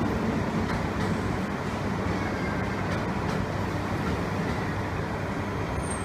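Steady low rumble of trains at a station platform: an E3-series Shinkansen set standing at the platform while a local train pulls out on the far track.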